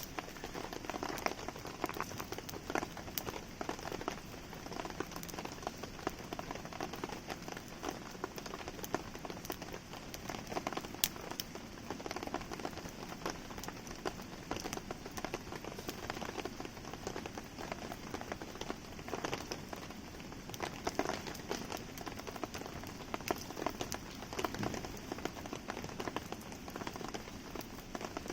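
Steady rain falling, a dense patter of drops with many small sharp ticks, mixed with a wood campfire crackling.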